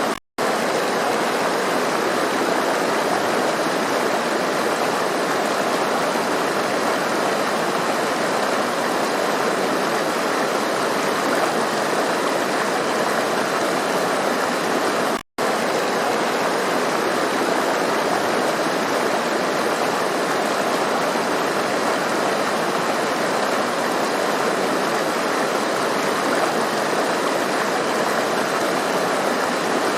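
Rushing stream splashing over rocks: a steady, even rush of water. The sound cuts out for a split second twice, just after the start and about halfway through.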